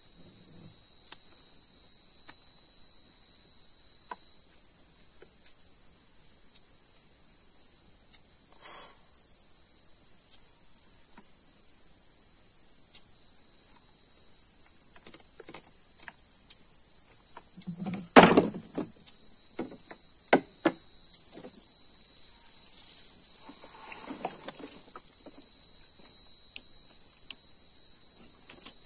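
Steady, shrill chorus of night-singing crickets, with scattered short clicks and knocks, the loudest cluster of them about two-thirds of the way through.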